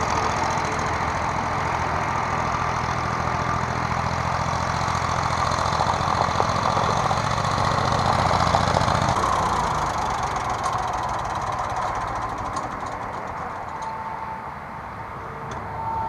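1970 Ford 3000 gas tractor's three-cylinder engine running steadily, sounding like it runs decent. Its low, even note drops away about nine seconds in.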